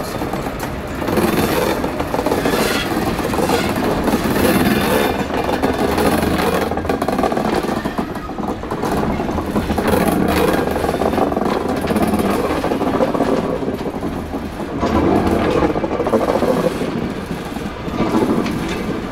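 Museum train of vintage passenger coaches rolling past close by, hauled by a MaK diesel locomotive; steady wheel-on-rail rumble with the diesel engine running, rising and falling as the coaches go by.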